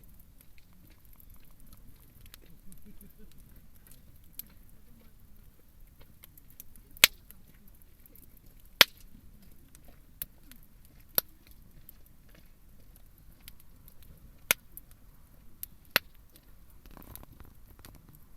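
Campfire burning: a low steady hiss of the fire with irregular sharp pops and cracks from the burning wood, about half a dozen loud ones, the loudest a little past a third of the way in and near halfway.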